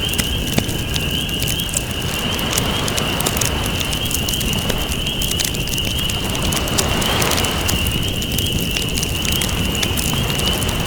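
Campfire crackling and popping over the slow wash of ocean waves, which swell and recede every few seconds. A steady high-pitched buzz runs underneath.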